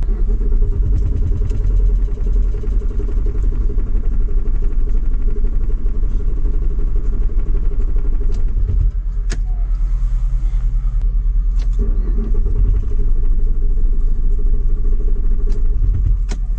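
Diesel engine being cranked on its starter, turning over in a fast, even chug but never catching, with a short break about nine seconds in. The fuel has likely gelled (waxed) in the extreme cold.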